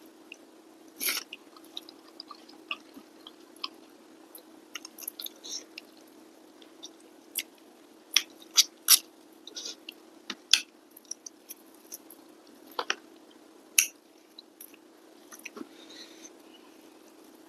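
Close-miked chewing of a mouthful of rice eaten by hand: irregular wet smacks and clicks, loudest in a cluster about eight to ten seconds in, over a faint steady hum.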